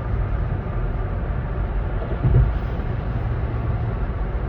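Steady low rumble of engine and road noise inside a truck's cabin while driving, with one brief louder sound about two seconds in.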